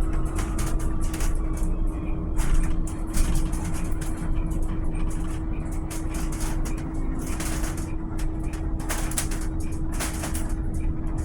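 Volvo BZL electric bus in motion: a low road rumble with a steady hum and frequent short rattles.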